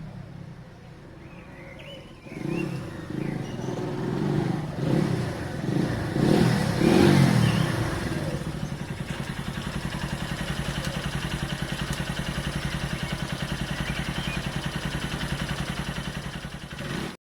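A Keeway Benelli 125cc motorcycle engine running. It is revved up and down several times with short blips of the throttle, then settles to a steady idle.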